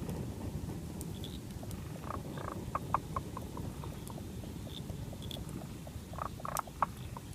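Frogs calling in the forest: an even run of short ticking calls, about four a second, and two bursts of louder clicking croaks, about two and six seconds in, over a steady low wash of noise.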